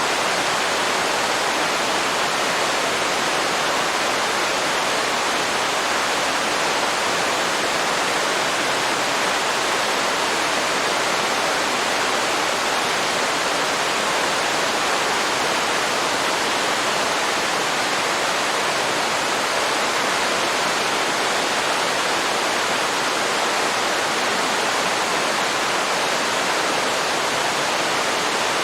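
Waterfall at the end of a river: a steady, even rush of falling water that does not change in level.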